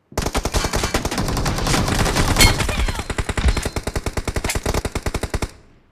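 Automatic gunfire in a shooter video game: one long, unbroken string of rapid shots, about ten a second, that starts suddenly and stops abruptly near the end.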